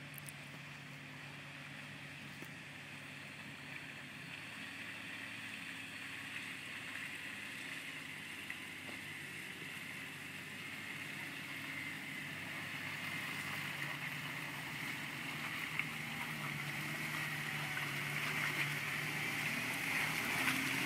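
Jeep Wrangler's engine running at low revs as it crawls over a rocky trail, growing steadily louder as it comes closer, with some hiss from the tyres on rock and mud.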